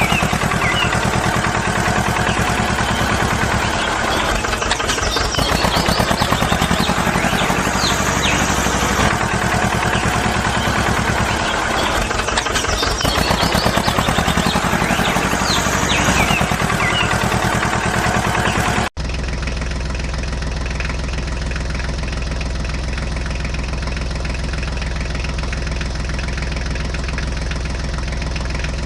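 Engine running at a steady idle with a fast, even chug. About two thirds of the way in it cuts abruptly to a smoother, steadier hum.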